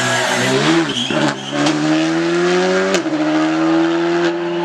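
Rally car engine under hard acceleration, its pitch climbing, with an upshift about three seconds in, after which it climbs again.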